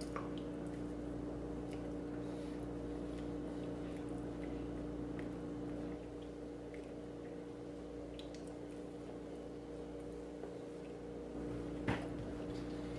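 Faint, soft, squishy mouth sounds of banana being chewed, with a few small clicks over a steady low electrical hum.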